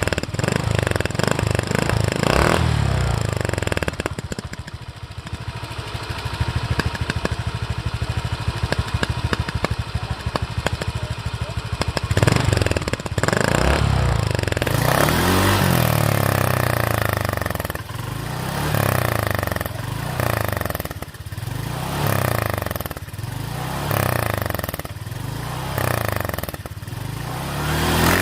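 Motorcycle with a modified, loud "mber" exhaust, running at a steady idle and then blipped on the throttle over and over in the second half, each rev rising and falling back, about one every second and a half.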